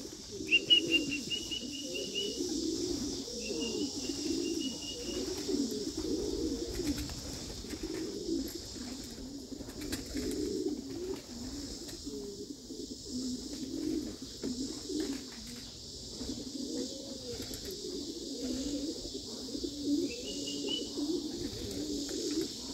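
Young racing pigeons cooing in and around the loft, many overlapping coos. A few short runs of rapid, high chirping come through near the start and again near the end.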